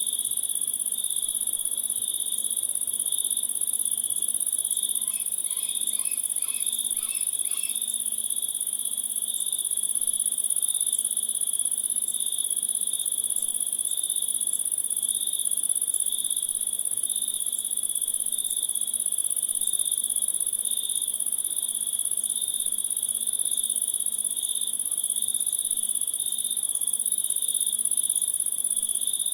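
Insect chorus of crickets trilling steadily, one very high continuous trill over a lower pulsing one. About five seconds in, a short run of about five quick chirps sounds over it.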